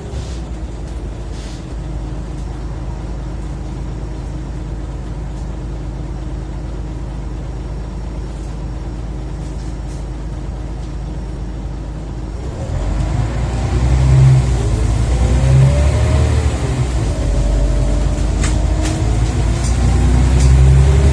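Scania OmniCity bus engine heard from inside the bus: it runs steadily and low at first, then about twelve seconds in it opens up and pulls hard. Its pitch climbs and drops again several times as the ZF automatic gearbox shifts up under acceleration.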